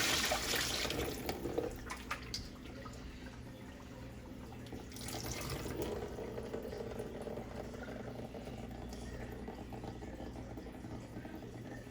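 Kitchen tap running into a sink while raw chicken pieces are rinsed under the stream. The water is loudest in the first couple of seconds, drops, and swells again about five seconds in.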